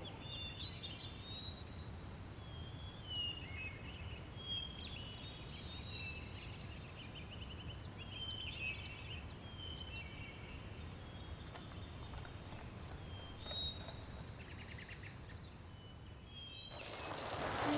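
Small birds chirping and calling in short, scattered phrases over a faint low outdoor rumble. About a second before the end, a rush of noise starts to swell.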